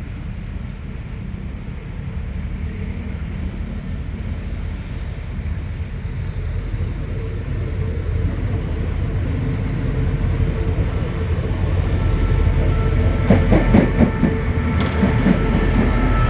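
Diesel-electric locomotive, the QSY Co-Co with its MTU V16 R4000 engine, approaching with its engine drone growing louder. Near the end a quick run of clicks comes from wheels over the rail joints.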